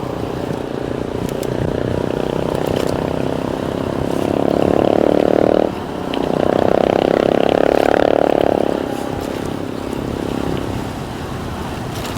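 A motor runs and strengthens, cuts out abruptly a little past the middle, then picks up again strongly before fading away. Wind rushes steadily over the microphone throughout.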